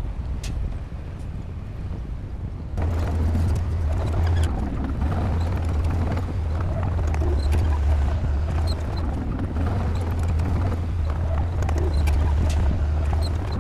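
Heavy bulldozer's diesel engine running under load with a deep steady drone, rising sharply in loudness about three seconds in, with scattered metallic clanks and knocks from then on.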